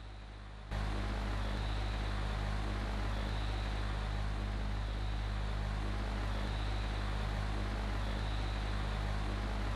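Steady low hum with a hiss over it, which jumps louder just under a second in and then holds level.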